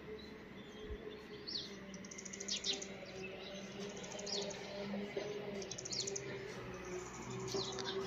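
Small birds chirping among the trees: short high down-slurred chirps and quick rattling trills, repeated every second or so. A faint steady low hum runs beneath them.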